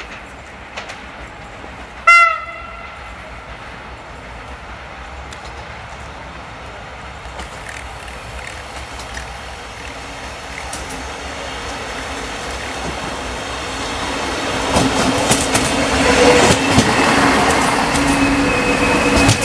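Regional passenger train arriving: one short horn blast about two seconds in, then the train's rumble slowly builds as it approaches. It grows loud as the carriages roll close by near the end, wheels clattering over the rail joints.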